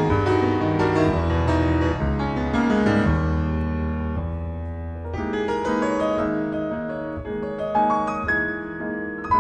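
Solo piano playing an improvised lounge/jazz-ethno fusion piece: full chords over sustained deep bass notes for about five seconds, then a lighter passage of single notes and chords in the middle and upper range.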